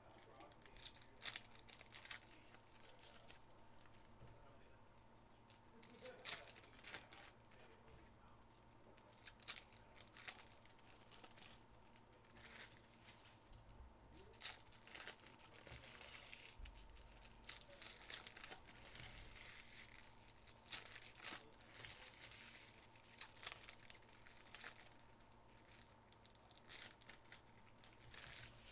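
Faint, intermittent crinkling and tearing of trading-card pack wrappers, with short rustles and clicks of cards being handled as packs are opened.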